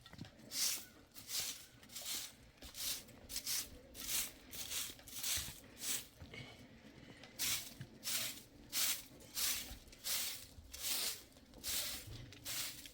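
Rhythmic rubbing strokes, each a short hiss, repeating about one and a half to two times a second, with a brief pause partway through.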